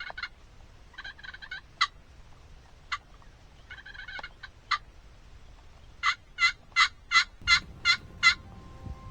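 Wild turkeys calling: a tom gobbles three times in short rattling bursts, with a few single sharp notes between, then a run of seven loud yelps about three a second near the end.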